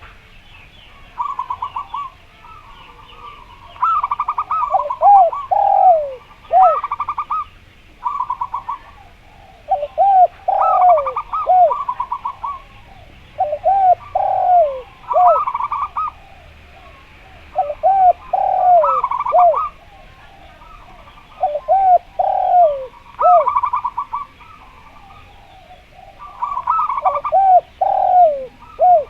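Zebra dove (perkutut) and spotted dove (derkuku) cooing together. Each phrase is a fast rattling trill followed by a few falling coos, and the phrases repeat about every four seconds.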